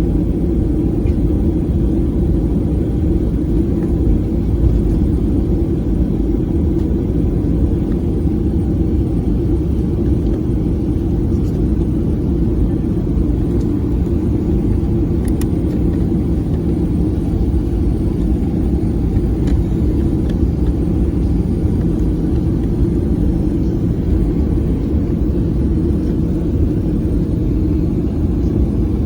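Steady low rumble inside a Boeing 737 cabin with its engines running.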